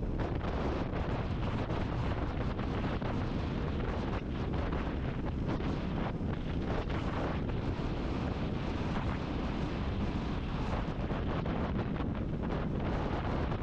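Wind buffeting the camera microphone at riding speed: a steady, dense rush. Underneath it is the Royal Enfield Classic 350 motorcycle.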